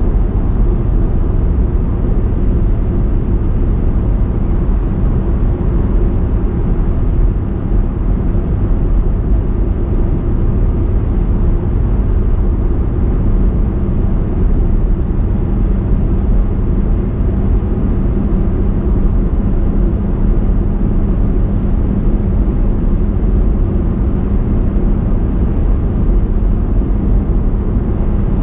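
A car driving along at a steady pace: an even, low rumble of tyres and engine with a faint steady hum, unchanging throughout.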